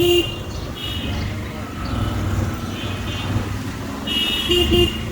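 Road traffic with vehicle horns honking over a steady low rumble: a horn blast right at the start and two short toots near the end, with higher-pitched beeps about a second and three seconds in.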